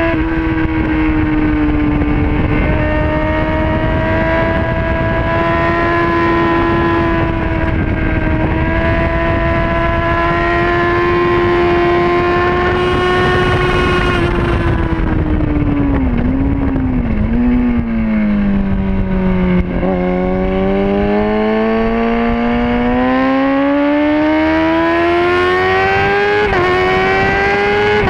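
Racing motorcycle's engine run hard around a circuit, with wind rush over it: the revs are held high and fairly steady for about half the time, then fall away with a couple of quick blips as it slows for a corner, and climb steadily again as it accelerates out.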